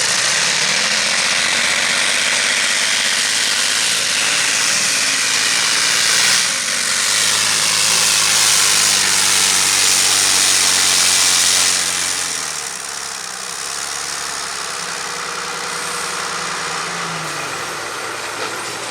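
Heavy Modified pulling tractor's engine running flat out under load as it drags the weight sled. About twelve seconds in it throttles back to a quieter, steady run.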